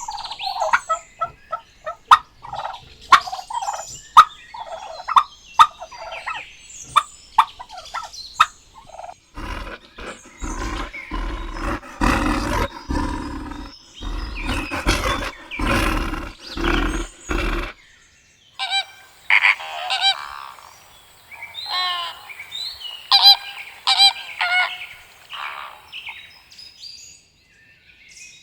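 Turkeys gobbling in repeated short calls, in three stretches separated by brief gaps. The middle stretch is the loudest and deepest.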